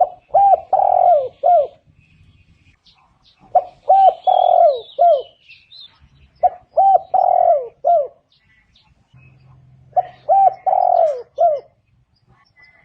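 Spotted dove cooing: four phrases, each a quick run of about four coos, repeated every two to three seconds. Faint high chirps of another small bird come in about four seconds in.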